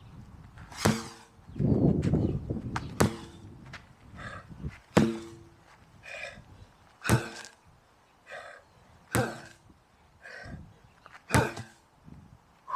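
A 16 lb sledgehammer striking in a steady workout rhythm, six blows about two seconds apart, some with a brief ring, with hard breaths between the swings.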